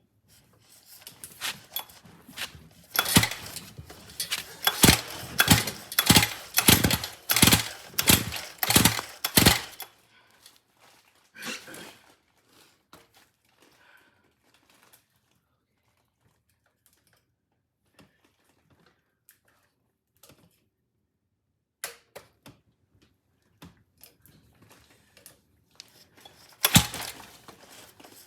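A gas scooter's recoil pull-starter being worked by hand: a quick run of about a dozen sharp mechanical knocks and clacks over some eight seconds, then a few scattered clicks, and another burst of knocks near the end. The starter pull is very stiff, which the owner complains of.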